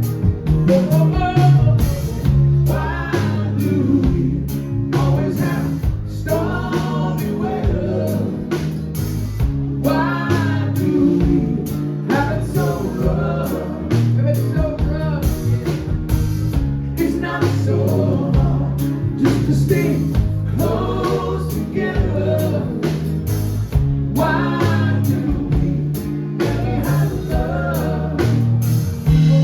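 A live band playing a song with singing over it and a steady beat.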